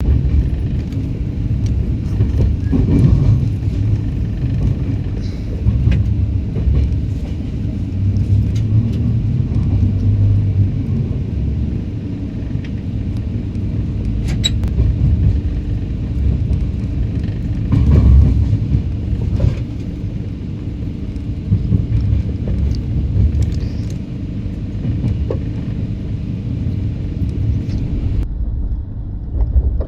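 Humsafar Express passenger train running, heard from on board: a steady, heavy low rumble with a few sharp knocks from the wheels and coach.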